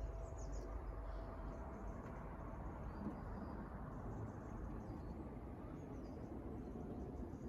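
Quiet outdoor background with faint bird chirps now and then.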